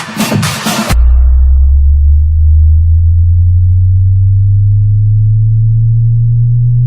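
Electronic dance music with a dense beat cuts off about a second in, and a loud, deep bass tone takes over, gliding slowly upward in pitch: a bass sweep test tone for checking speakers and subwoofers.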